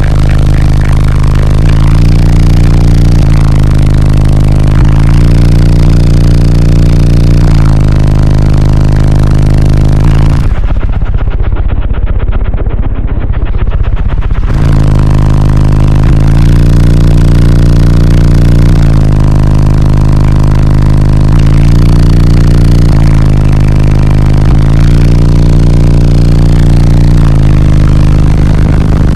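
Very loud, bass-heavy music played through a car audio system with six 12-inch subwoofers on about 30,000 watts. For about four seconds near the middle the treble falls away and only the deep bass is left.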